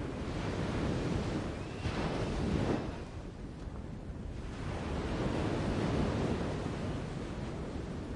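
Wind rushing through forest foliage, a steady whooshing that swells and fades twice.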